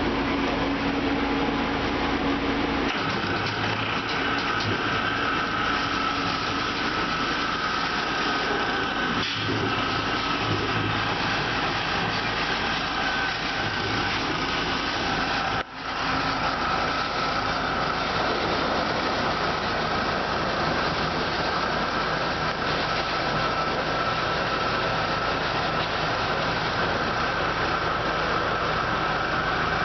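1998 Ceccato Ginga car wash machine running: a steady mechanical hum with a high whine. The sound shifts about three seconds in and drops out for an instant about halfway through.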